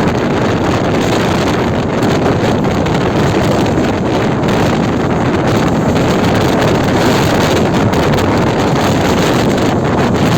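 Steady rush of wind on the microphone over the running noise of a moving train.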